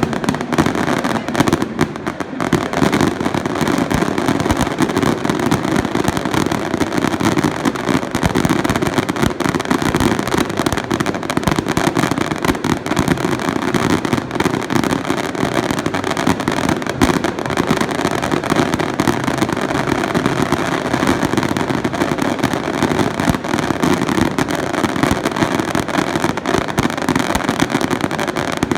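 Fireworks going off in a dense, continuous barrage of crackling bangs, packed so closely that they run together with no pause.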